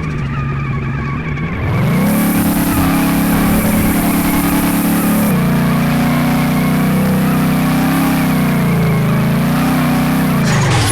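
Twin-turbo Ford Mustang RTR engine revving up about two seconds in and held at high revs with a wavering pitch while drifting, with a hiss over it, then dropping back near the end.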